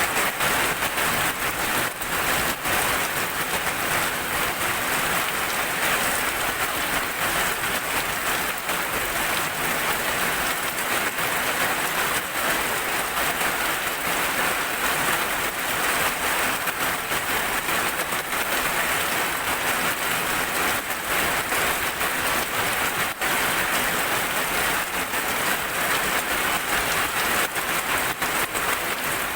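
Heavy rain falling steadily, a dense even hiss with many single drops striking close by as sharp little clicks.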